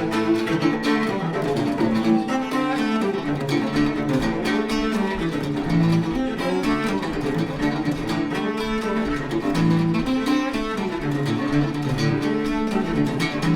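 Live acoustic string music: a bowed cello playing over plucked acoustic guitar, with a deep bass line coming in about four seconds in.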